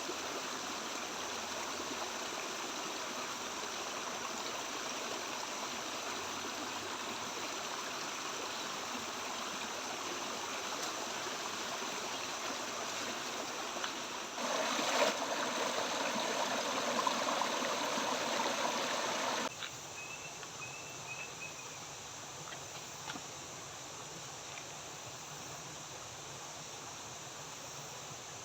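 River water flowing steadily. It gets louder for about five seconds in the middle, then drops abruptly to a quieter flow, with a few faint high chirps soon after.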